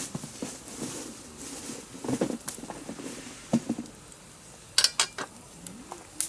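Scattered small clicks and light knocks at an irregular pace, with a sharper cluster of clicks a little past the middle.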